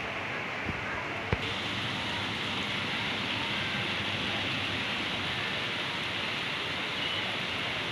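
Steady heavy rain falling, a continuous even hiss. A single sharp knock comes just over a second in, and after it the hiss turns brighter.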